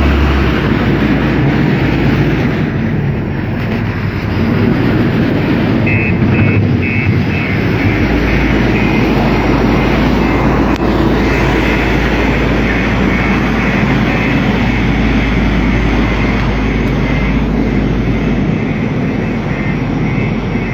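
Diesel engine of heavy work machinery running steadily with a low rumble, and a faint pulsing high tone above it from about six seconds in.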